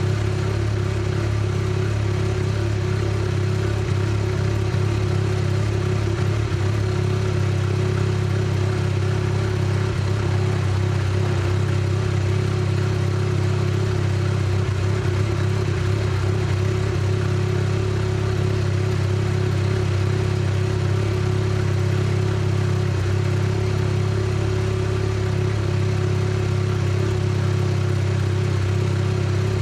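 Mazda RX-7 FC3S's rotary engine idling steadily, with an even, unchanging note.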